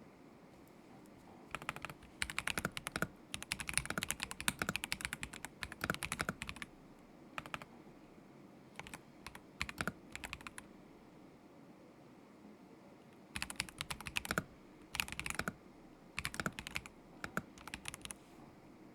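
Typing on a KZZI K75 Pro mechanical keyboard with Moment linear switches: runs of quick keystrokes in bursts, broken by pauses, the longest lasting a few seconds about midway.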